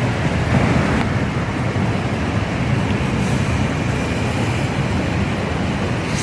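River rapids rushing, a loud, steady, even noise of flowing water.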